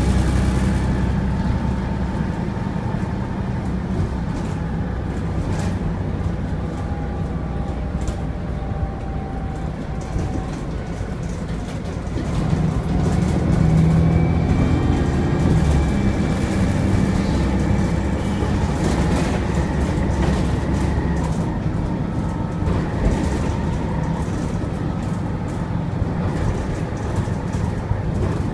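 Volvo B7TL double-decker bus's turbocharged six-cylinder diesel running under way, with a thin turbo whistle over the engine note. The engine works harder a little before the middle, then eases back.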